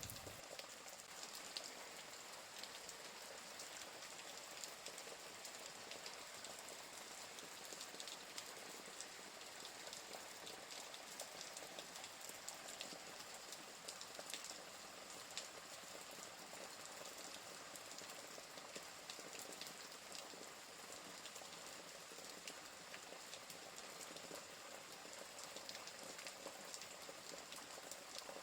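Steady rain hiss mixed with the scattered sharp pops and crackles of a wood fire.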